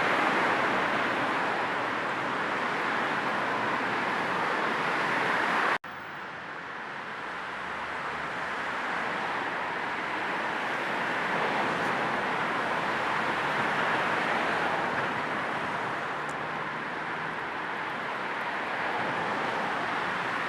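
Steady car-ride road noise blended with low white noise. It cuts out for an instant about six seconds in and resumes a little quieter.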